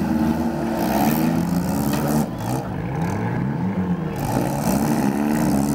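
Demolition derby car engines running and revving, their pitch rising and falling as the cars push against each other.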